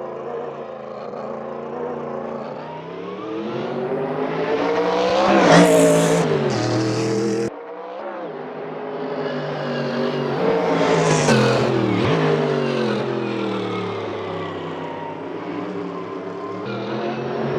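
Race cars passing at speed, two of them, each engine note rising as it approaches and falling as it goes by, with another car closing in near the end. The sound drops off abruptly about seven and a half seconds in.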